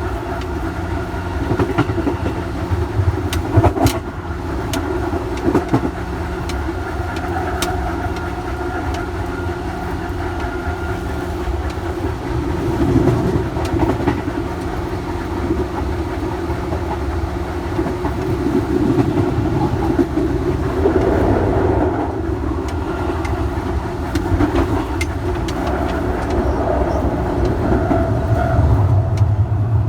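Electric commuter train running, heard from on board: a steady motor and rolling hum with scattered clicks from the wheels on the rail joints, growing heavier in the low end near the end.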